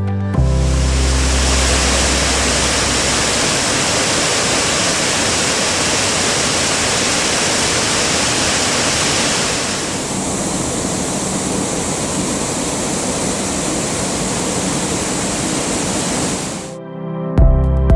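Waterfall water rushing and splashing steadily. About ten seconds in it shifts to a duller rush with less hiss.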